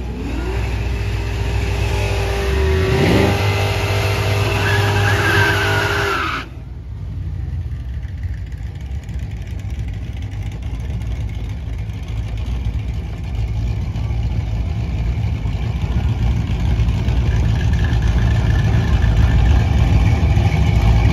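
Drag-car engines at the start line. For about six seconds an engine is held at high, steady revs with tyre squeal, as in a burnout, and then breaks off abruptly. After that engines rumble at low revs as cars idle up to stage, growing louder near the end.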